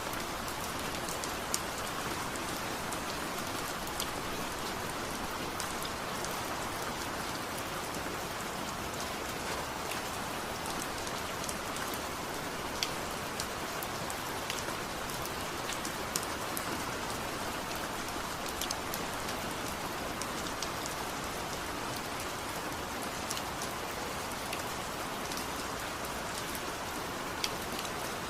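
Steady rain: a dense, even hiss with scattered sharp ticks of drops hitting a surface.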